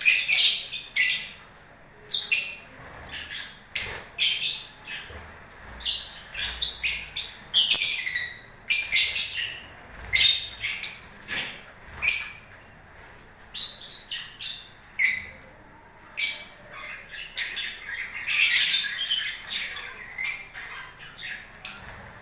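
Lovebirds calling: a rapid string of short, shrill, high-pitched chirps and screeches, one after another with only brief pauses between them.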